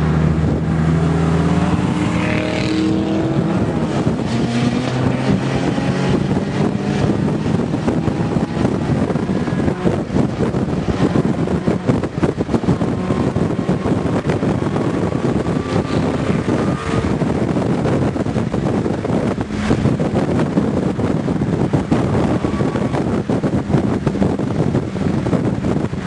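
Honda K-series four-cylinder engine accelerating hard, its pitch rising through the revs in the first few seconds and again later, over a dense rush of road and wind noise.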